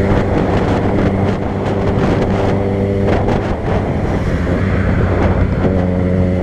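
A vehicle engine drones at a steady speed, with wind noise rushing over the microphone. About three seconds in, the engine hum sinks under a stronger gust of wind noise for a couple of seconds, then comes back.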